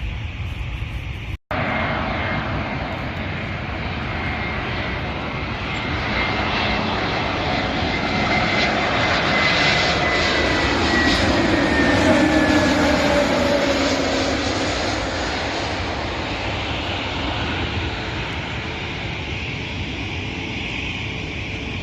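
Jet airliner passing by: a rushing engine noise swells to its loudest about halfway through and then fades, with a high whine that slowly falls in pitch as it goes past. There is a split-second break in the sound near the start.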